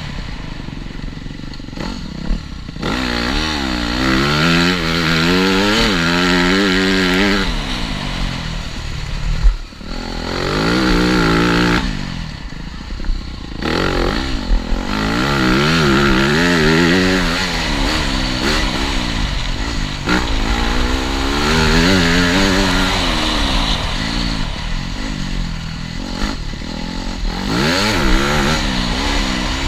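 TM Racing 250 FI motocross bike engine revving up and down over and over as the throttle is worked on and off through the laps, with brief drops when the throttle closes. A single sharp thump comes about nine and a half seconds in.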